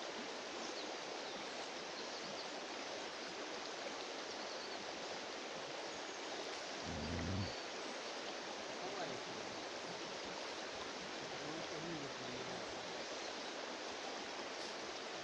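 River water running, a steady rushing noise, with a brief low thump about seven seconds in.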